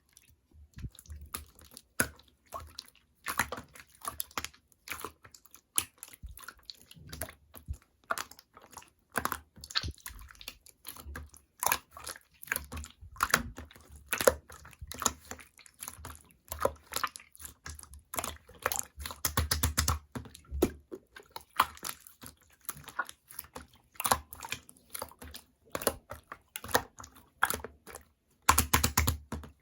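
Clear slime being squeezed and worked by hand, making quick sticky clicks, crackles and little pops, thickest about twenty seconds in and near the end.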